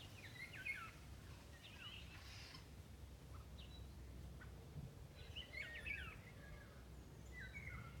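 Small birds chirping and twittering in short bursts of quick notes. The busiest flurries come at the start and around five to six seconds in. Underneath is a faint low rumble of background noise.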